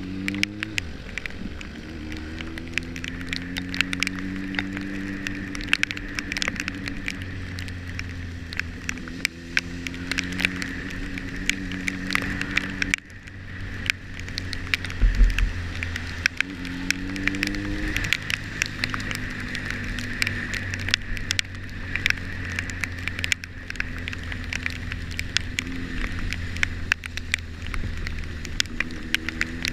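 A motorcycle engine running under way. Its note climbs as it accelerates and drops back at gear changes, near the start, about halfway through and at the end. Rain patters with frequent sharp ticks of drops striking close to the microphone.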